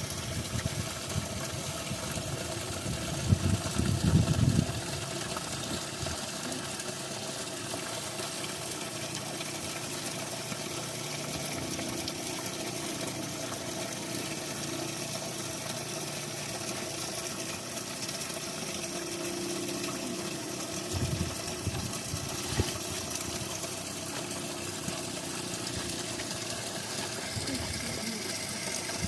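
Spring water running steadily, with a constant hum beneath it and a few low thuds in the first few seconds and again about three-quarters of the way through.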